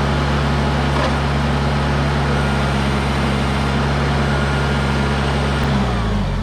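An engine running steadily at a constant speed, then slowing with its pitch dropping near the end as it winds down.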